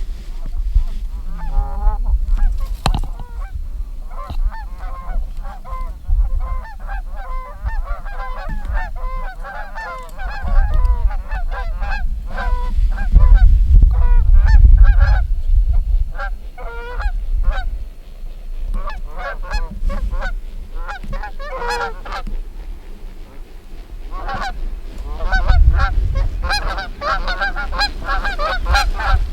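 A flock of geese honking, many calls overlapping, thinning out past the middle and building again near the end. A low rumble of wind buffets the microphone in gusts.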